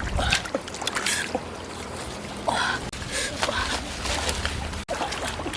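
Shallow water splashing and sloshing in irregular bursts, with the loudest splash about halfway through.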